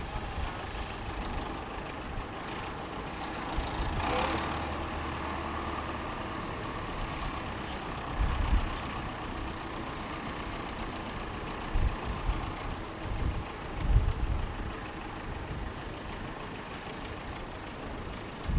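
Railway locomotive standing and running with a steady mechanical hum, with a short hiss about four seconds in and a few low thumps.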